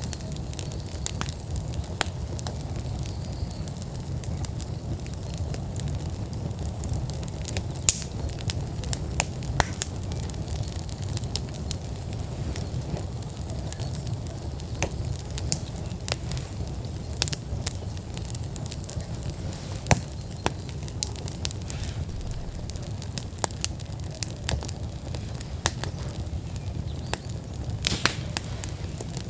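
Wood fire burning in an outdoor fire pit at full burn: irregular sharp crackles and pops over a steady low rumble.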